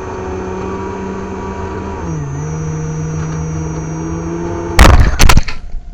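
Whine of an RC airplane's 2200KV brushless motor and 6x4 propeller, heard from on board over a haze of rushing air; its pitch drops about two seconds in as it throttles back. Near the end a short burst of loud knocks and rattles, after which the motor is no longer heard.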